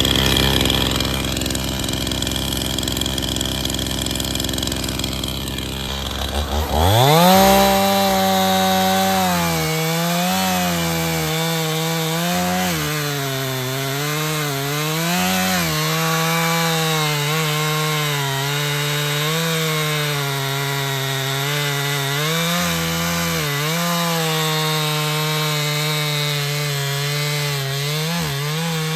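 50 cc Stihl MS271 chainsaw idling steadily, then revving sharply to full throttle about seven seconds in. It cuts through wood for the rest of the time, its pitch dipping again and again as the chain bogs under load in the cut.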